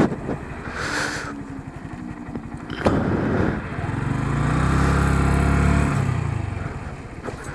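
Honda Grom's 125 cc single-cylinder engine running at low riding speed. It revs up and eases back off once, about midway.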